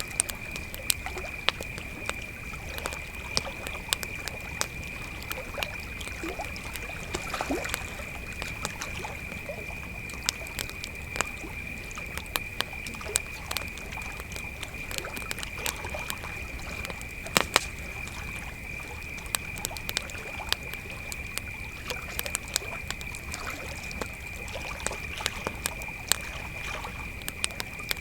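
Crickets chirping in a steady high-pitched chorus over a campfire crackling with frequent sharp pops, with a low rumble underneath.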